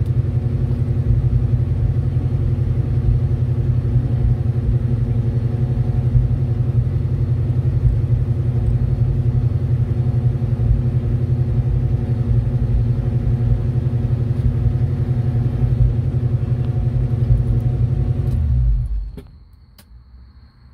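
Car engine idling with a steady low rumble, heard from inside the cabin, which stops abruptly about 19 seconds in as the engine is switched off.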